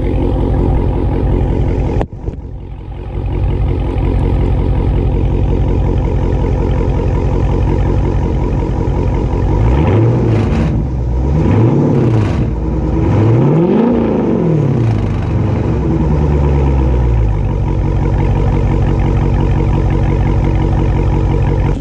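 2018 Dodge Charger 392's 6.4-litre HEMI V8 idling with a steady burble, revved three times in quick blips from about ten seconds in, the third rev the highest and longest before it falls back to idle. There is a single knock about two seconds in.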